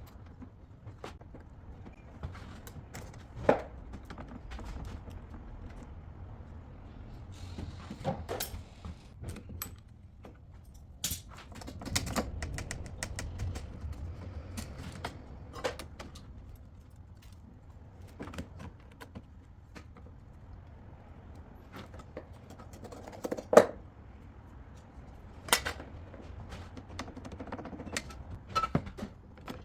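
Stained glass repair work: scattered light clicks, taps and knocks of tools and glass being handled on a workbench, with sharper knocks about 3.5 s, 8 s and 23.5 s in, the one near 23.5 s the loudest.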